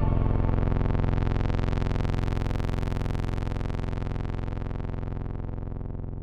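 Electronic music: a sustained low synthesizer drone whose sound brightens and then darkens again while it slowly fades.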